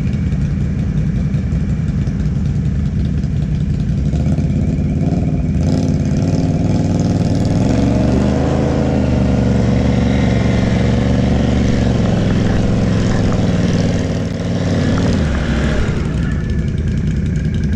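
ATV engine running. It revs up about six seconds in, holds higher revs for around nine seconds, then drops back toward idle.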